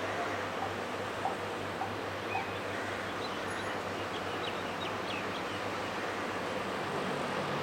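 Steady rumble of aircraft engines at an airfield, with a few short bird chirps about three to five seconds in.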